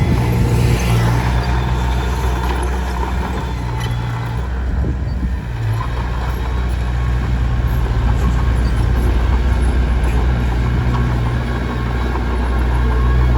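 Komatsu D21P bulldozer's diesel engine running with a steady low drone and a rough noisy rattle over it, easing briefly about five seconds in.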